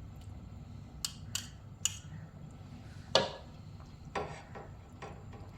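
Kitchen utensils and cookware clinking and knocking together, about six sharp knocks. The loudest comes about three seconds in and rings briefly.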